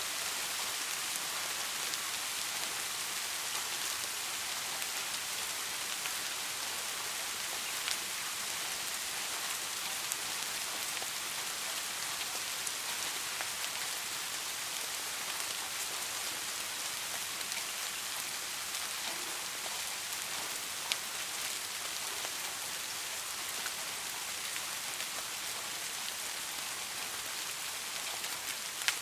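Steady rain falling on a surface: an even hiss, with the odd louder individual drop ticking through it.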